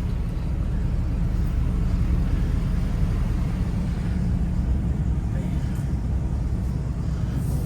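Ford F-350 diesel pickup driving, its engine and road noise a steady low rumble heard from inside the cab.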